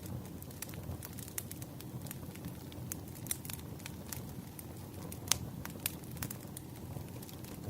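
Campfire burning: a steady low rustle of flames with irregular sharp crackles and pops, the loudest pop about five seconds in.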